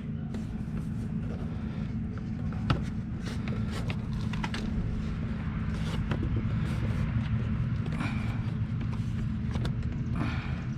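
Plastic dash trim panel being handled and worked into place, with scattered small clicks and taps over a steady low hum.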